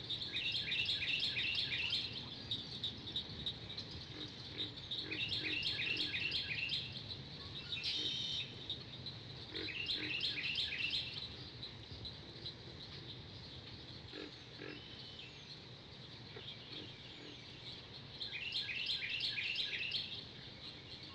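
Tropical forest ambience: rapid, evenly pulsed chirping calls come in bursts of one to two seconds, four times, over a steady low background hiss.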